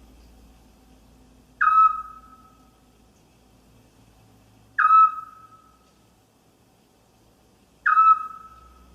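An owl calling: three short, whistled single notes about three seconds apart, each starting sharply and dying away quickly.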